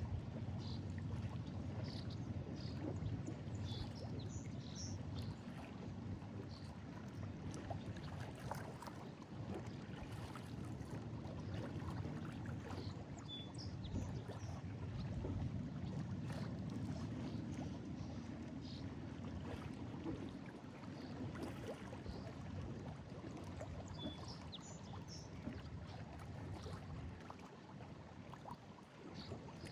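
Lake Erie waves washing and sloshing against a breakwall, a steady low wash that swells and eases, with short high chirps scattered over it.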